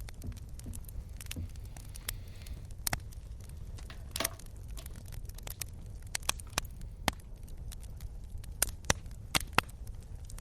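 Wood fire crackling: irregular sharp pops and snaps over a steady low rumble, coming thicker and louder in the second half.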